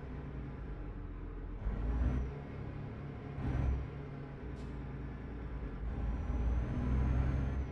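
Truck engine running, heard from inside the cab while driving, a steady low rumble that swells louder three times as the driver accelerates, with a few faint clicks.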